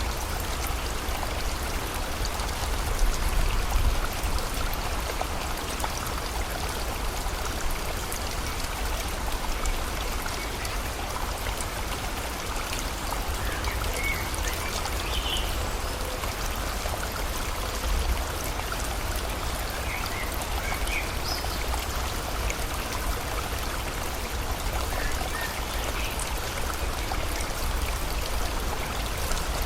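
Steady rain and flowing river water, with a few faint, short bird chirps scattered through the middle.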